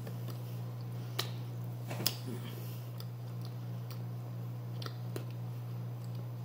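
A person chewing food with a few small, sharp mouth clicks and smacks, while eating grilled chicken with her fingers, over a steady low hum.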